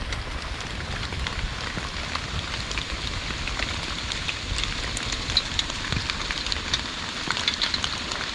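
Heavy rain falling steadily, an even hiss with many small drop ticks.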